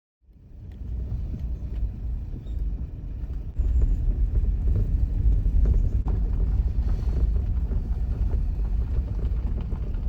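A loud, steady low rumble that cuts in suddenly from silence and steps up louder about three and a half seconds in, with faint scattered clicks.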